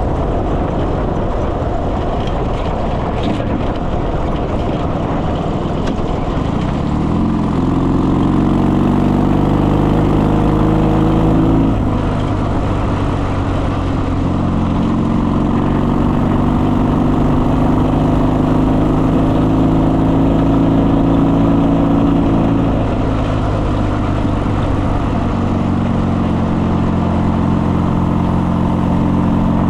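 Motorcycle engine running under way, its note climbing about seven seconds in as it accelerates, then holding steady with brief dips in pitch around twelve and twenty-three seconds in, over a steady rushing noise.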